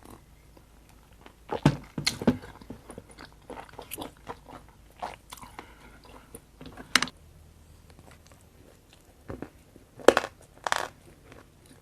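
Close-up biting and crunching of a firm, crumbly food, with wet chewing in between; a few loud bites land about a second and a half in, around seven seconds in, and near the end.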